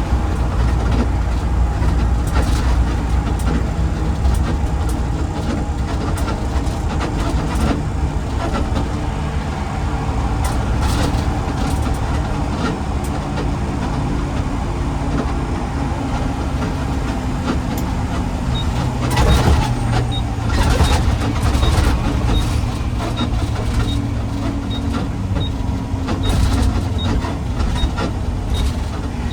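Garbage truck engine running with a steady low rumble and road noise while driving, with a few brief bursts of noise. About two-thirds in, a faint regular ticking starts, about twice a second.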